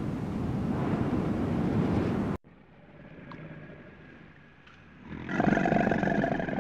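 Steady rushing wind noise that cuts off abruptly, then, after a quieter stretch, a crocodile lets out a loud, deep growling roar near the end.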